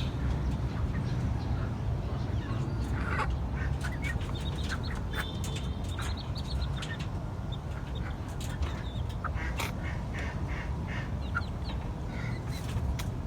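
Poultry calling in short, scattered calls, mixed with sharp taps and clicks, over a steady low rumble.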